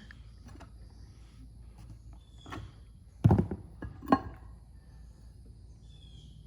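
Parts and tools being handled on a workbench: scattered light clicks, then two knocks, the louder a dull thud about three seconds in and a sharper one about a second later.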